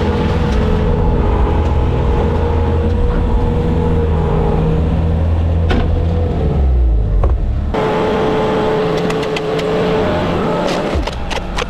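Skid steer's diesel engine running under load with a steady hydraulic whine. About two-thirds through, the deep engine rumble drops away abruptly while the whine carries on, and a quick run of sharp clicks or knocks starts near the end.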